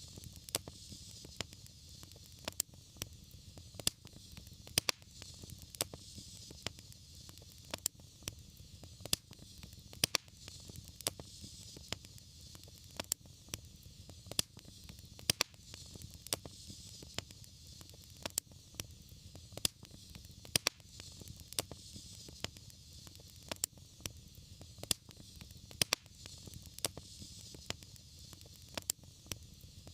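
Wood fire crackling, with sharp irregular pops about every half second over a steady low rumble and soft hiss.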